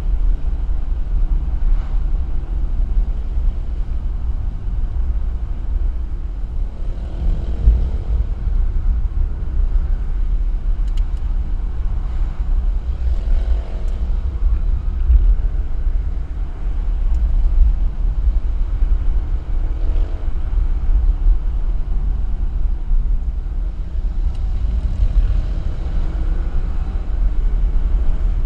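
A car driving on the road, a steady low rumble of engine and road noise, with the engine note swelling a few times.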